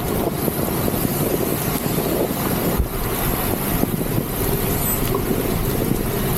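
Steady rushing noise of wind and heavy rain on a camera microphone while riding a bicycle in a downpour.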